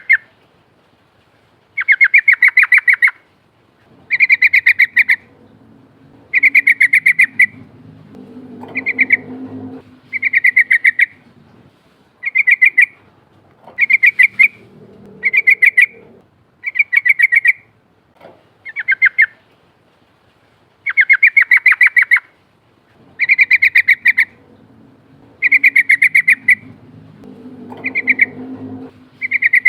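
Yellow-vented bulbul (trucukan) singing its rolling song: short bubbling phrases of rapid notes, repeated about every two seconds. A faint low rumble runs underneath twice.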